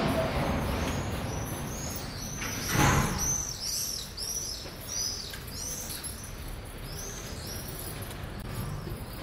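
A small bird chirping in a quick series of short, high, arched notes over a street background. The low traffic rumble fades in the first couple of seconds, and a brief loud whoosh comes just under three seconds in.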